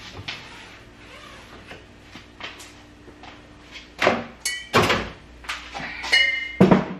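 Refrigerator shelves, drawers and containers being handled as the fridge is cleaned out: soft taps and rustles at first, then loud knocks and clatter over the last few seconds, with a couple of short ringing clinks.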